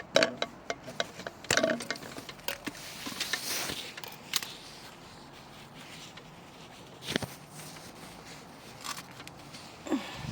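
Scattered sharp clicks and snips with rustling of leaves as aubergines are cut from the plant and handled.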